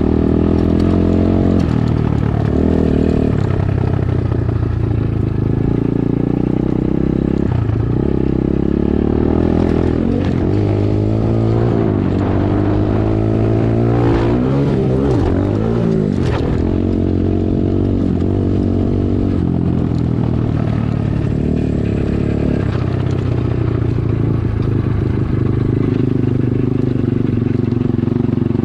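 Dirt bike engine being ridden, its pitch rising and falling repeatedly as the throttle opens and closes and it shifts gears, with a run of quick revs up and down in the middle.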